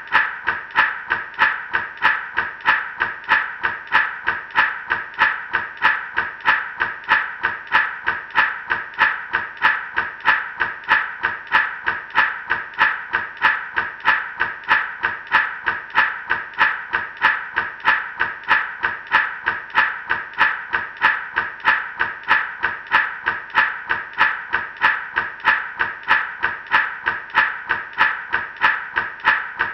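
Gourd rattle shaken in a steady even rhythm, about two to three shakes a second, each a crisp rattle of seeds against the dried gourd shell.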